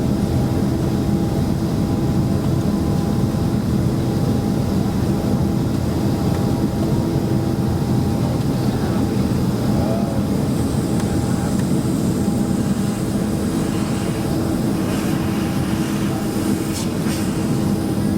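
Cabin noise inside a Boeing 767-300ER with its engines running: a steady hum with several held tones. A few faint ticks or rattles come in the second half.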